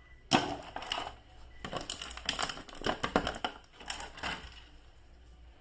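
Irregular plastic clicks and clacks from handling a toy action figure and its packaging. They run for about four seconds and die away near the end.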